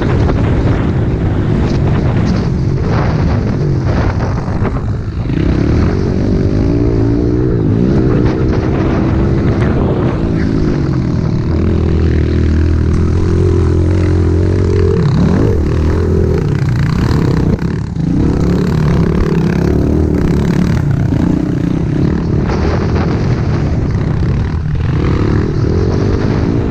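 Pit bike's small single-cylinder engine being ridden hard, the engine note rising and falling again and again as the throttle is opened and closed, with a brief drop about two-thirds of the way through.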